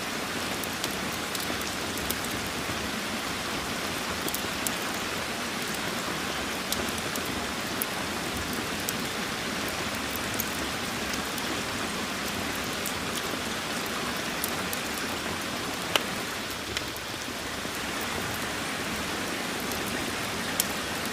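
Steady rain with scattered sharp pops, the crackle of a wood fire mixed in; one louder pop about three-quarters of the way through.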